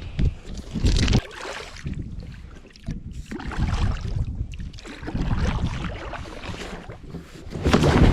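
Water splashing and sloshing around a fishing kayak, with wind buffeting the microphone. Near the end the splashing turns loud and continuous as the kayak rolls over.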